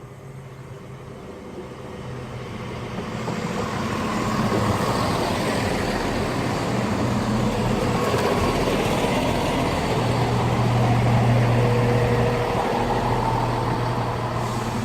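Class 170 Turbostar diesel multiple unit at a station platform, its underfloor diesel engines humming. The sound grows louder over the first few seconds as the unit draws in, then holds steady.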